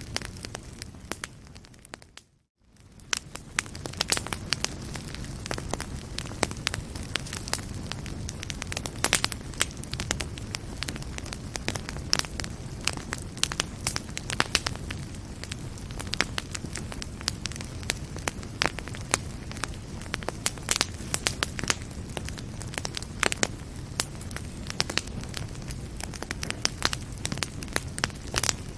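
Wood fire burning in a fireplace: a steady low rumble with constant crackling and frequent sharp pops. About two seconds in the sound fades out to near silence for a moment, then swells back in.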